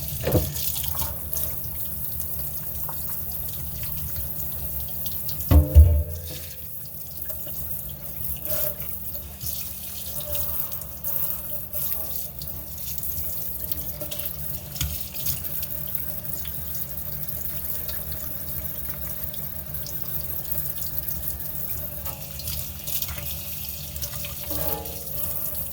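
Low-pressure faucet running into a sink as Berkey water filter elements are rinsed under it. A thump of handling sounds about six seconds in.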